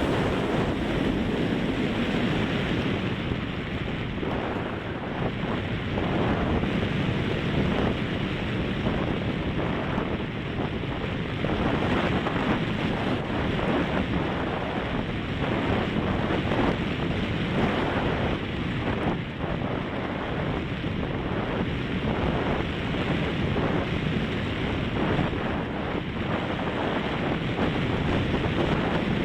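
Strong wind buffeting the microphone: a steady rushing noise that swells and eases in gusts.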